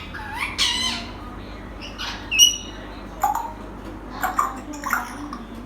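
African grey parrot giving a string of short squawks and calls, mimicking other birds' sounds, with one clear high whistle about two and a half seconds in.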